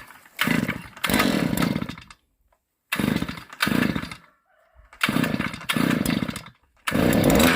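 Handheld power tool motor running in about five short bursts with abrupt stops between them, then running steadily near the end.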